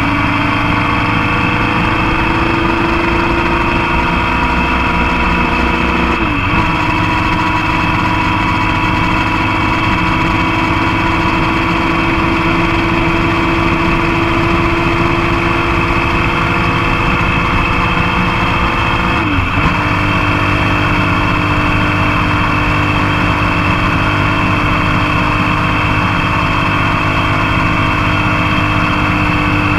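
Motorcycle engine running steadily at riding speed, close up from the foot peg, with a rush of wind and road noise. Its pitch drifts slowly and breaks sharply twice, about six seconds in and again near twenty seconds, as when the rider changes gear.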